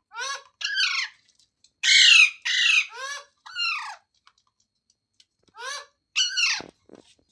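A parrot giving a series of short, harsh squawks, each arching up and dropping in pitch: six in quick succession, a pause of about two seconds, then two more near the end.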